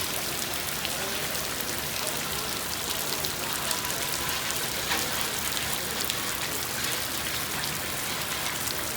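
Steady rain falling, a hiss dotted with the ticks of many separate drops, typical of an afternoon summer downpour in Florida.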